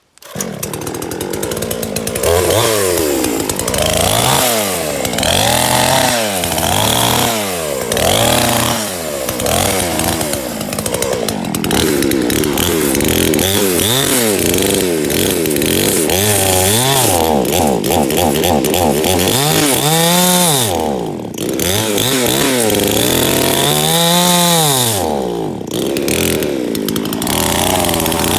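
Chainsaw cutting a tree stump down level. The engine's pitch rises and falls over and over as the chain bites into the wood and is eased off.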